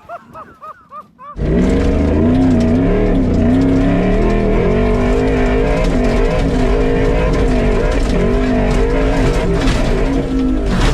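Chevrolet Silverado pickup's engine running hard at high revs during a race run. It cuts in suddenly about a second in, after a few faint shouts, and holds at a steady, slightly wavering pitch.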